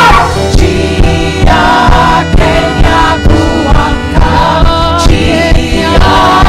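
Gospel worship music: a group of voices singing together over a steady drum beat, about two beats a second.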